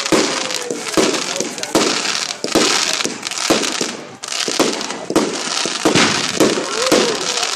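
Fireworks going off: a rapid series of sharp bangs, about two a second, over continuous crackling.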